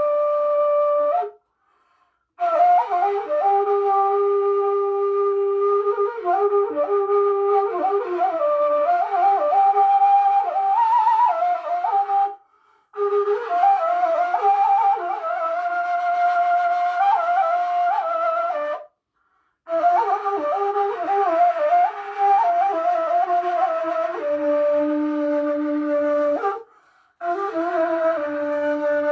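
A solo flute-like wind instrument plays a slow Turkish folk melody in long phrases, breaking off for breath four times.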